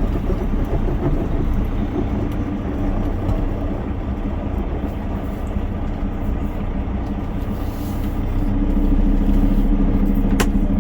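Peterbilt 389 semi truck's diesel engine running steadily as the rig drives slowly, getting louder about eight seconds in as it takes more throttle. A single sharp click comes near the end.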